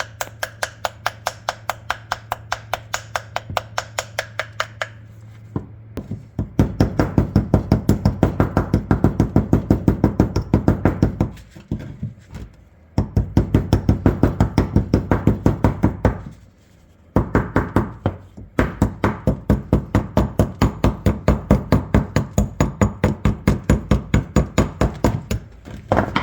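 Hammer tapping rapidly on the rust-crusted barrels of an old double-barrel shotgun, cracking its thick rust shell loose. The taps come at about four to five a second in long runs with short pauses. They are lighter and brighter for the first few seconds, then heavier.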